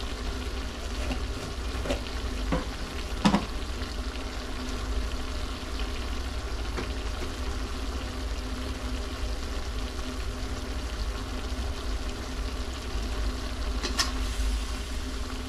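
Goat liver pieces frying in a pan with a steady sizzle while being stirred, the liver's own water cooking off. A few sharp knocks of the utensil against the pan, the loudest about three seconds in and another near the end, over a low steady hum.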